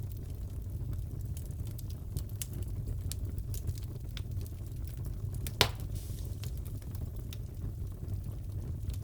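Wood fire crackling in a fireplace: a steady low rumble with scattered small crackles and one sharp, louder pop about halfway through.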